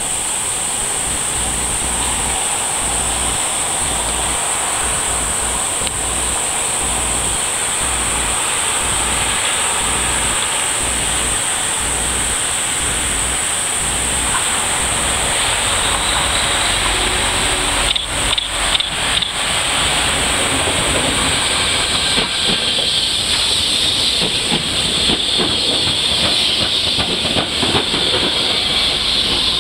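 Six-car Fukuoka City Subway 1000 series electric train coming out of a tunnel and passing close by. A few wheel clicks come a little past halfway, then the steady running noise of the cars going past. Before the train arrives, a steady high hiss fills the air.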